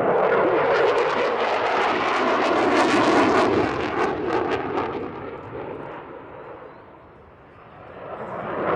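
Eurofighter Typhoon's twin Eurojet EJ200 turbofans in a loud jet roar with crackling, fading as the fighter climbs away, then swelling again near the end.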